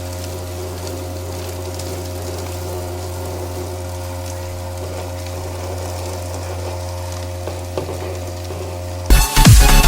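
Small electric motor of a homemade vacuum cleaner running steadily, a low hum with a faint crackling hiss. Loud electronic dance music cuts in near the end.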